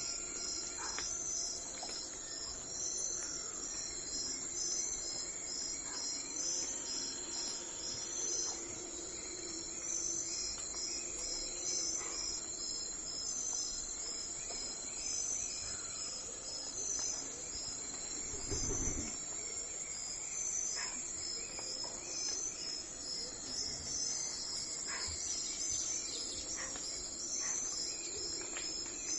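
Insects chirping in fast, high-pitched pulse trains that repeat over and over, with a few faint short bird chirps. A single low thump a little under two-thirds of the way in.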